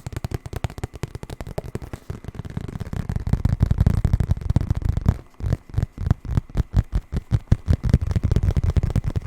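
Rapid ASMR tapping on a hard object close to the microphone, many taps a second, growing louder about three seconds in; after a brief break near the middle the taps come a little more spaced and heavier.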